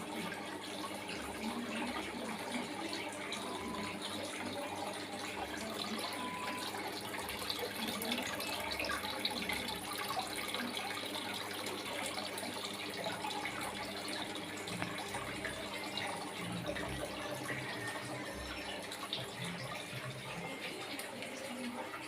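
Water running and splashing steadily down a small homemade styrofoam aquarium waterfall, a continuous trickling rush with no breaks.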